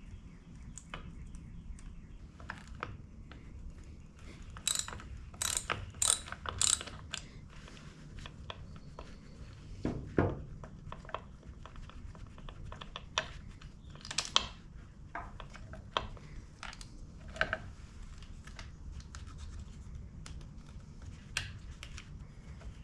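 Hand tools working on a motorcycle's rear suspension: irregular metallic clicks and clinks, with a ratchet-like clicking. A burst of sharp clicks comes about five to seven seconds in, and a duller knock about ten seconds in.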